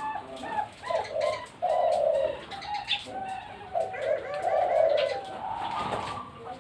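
Several zebra doves (Bangkok perkutut) cooing over one another, their rolling coos overlapping continuously, with higher chirping notes mixed in.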